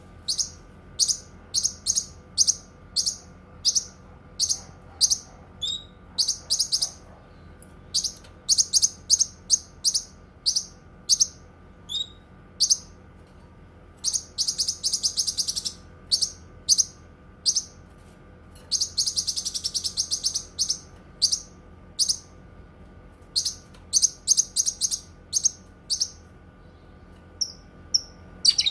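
Cucak kinoi singing: a steady series of short, sharp, high chirps, broken by two longer rapid trills about halfway and about two-thirds of the way through.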